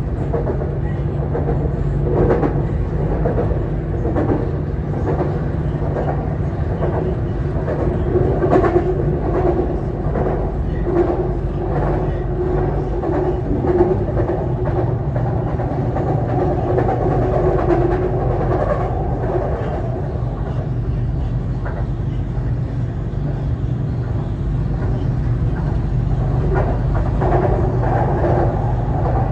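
A BTS Skytrain EMU-B1 electric train running, heard on board: a steady rumble of wheels on track with a constant motor hum and scattered clicks over the rails.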